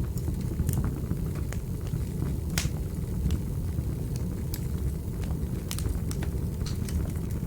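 Wood fire burning in a fireplace: a steady low rumble of the flames with irregular sharp crackles and pops, one louder pop about two and a half seconds in.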